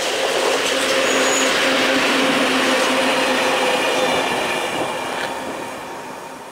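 PKP Cargo ET22 electric locomotive with a single coal wagon passing by: rolling wheel-on-rail noise with a steady low hum. It is loudest in the first few seconds, then fades away as the train recedes.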